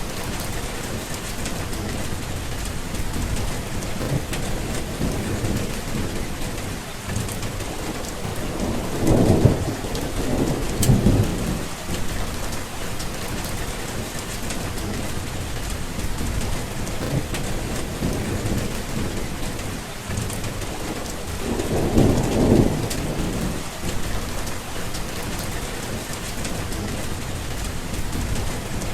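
Steady rain falling, with low rumbles of thunder swelling up twice, about a third of the way in and again after the middle.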